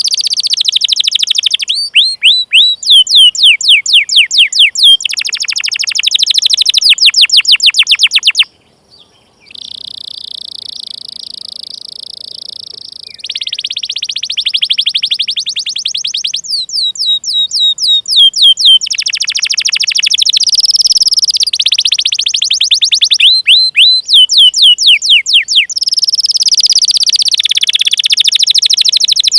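Domestic canary singing: fast series of sharp, falling 'cuit cuit' chirps alternating with steady rolling trills, high-pitched and loud. The song breaks off briefly about eight seconds in and resumes with a long rolled trill before the quick chirp runs return.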